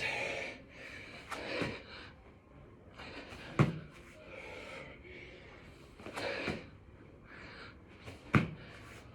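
A man doing six-count burpees: four thuds of landing on the floor, about two seconds apart, with hard, gasping breaths between them.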